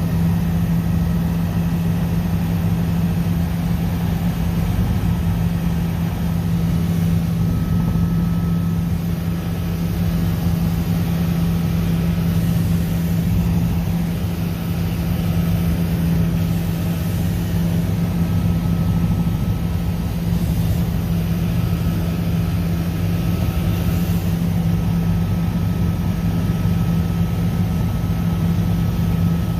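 Helicopter engine and rotors running in steady flight: a loud, unchanging drone with a strong low hum and a faint higher whine that comes and goes.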